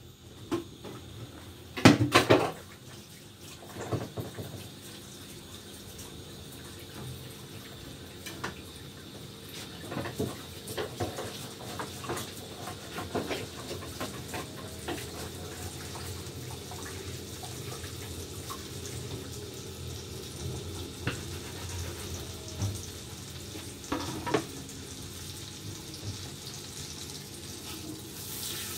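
Chicken pieces frying in hot oil in a frying pan: a steady sizzle that slowly grows louder, with a few clicks and clatters of utensils, the loudest about two seconds in.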